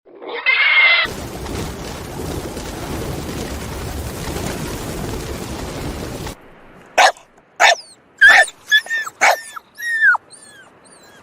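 A dog whining briefly, then after a stretch of steady rushing noise, a run of short high yips and whimpers, each dropping in pitch.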